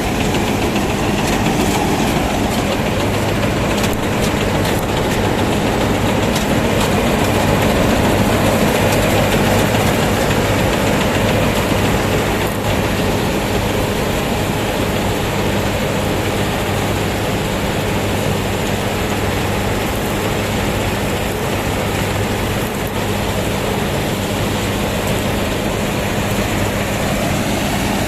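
1965 Köla Combi Special combine harvester running steadily while harvesting wheat: a low engine hum under the dense, even noise of the machine at work.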